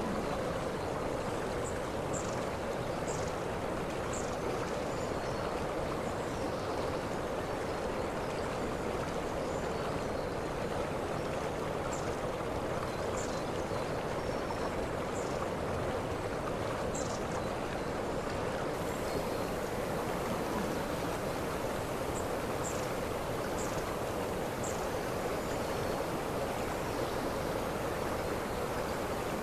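Waterfall: a steady rush of falling water, with faint, short high chirps every second or two.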